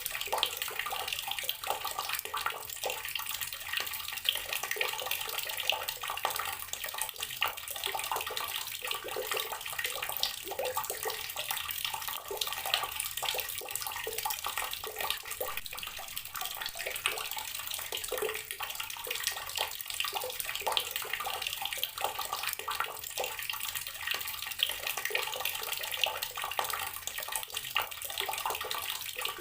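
Water running steadily from an outdoor tap, with a continuous splashing patter.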